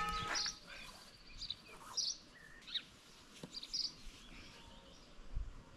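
Scattered short, high bird chirps over quiet outdoor background, with a couple of soft low thumps in the second half.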